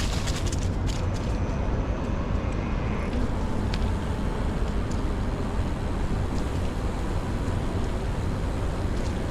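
Steady street traffic noise with a low rumble, heard while riding a bicycle, with a few faint clicks.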